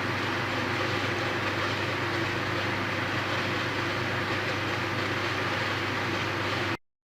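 Steady hiss with a low hum underneath, unchanging in level, which cuts off abruptly to silence near the end.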